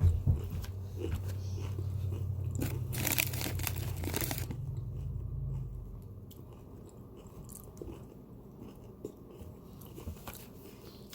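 Close-up crunching and chewing of a cream-cheese-stuffed jalapeño coated in crushed Doritos Dinamita chips, the loudest crunches about three to four seconds in over a low rumble, then quieter, softer chewing for the rest.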